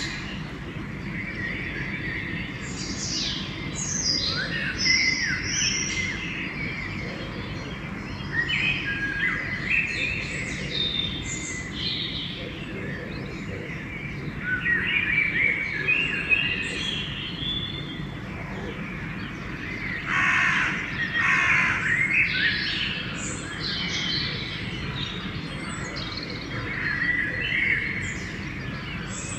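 Dawn chorus: several songbirds singing and chirping over one another without pause, with crows cawing among them. A low steady background rumble runs underneath.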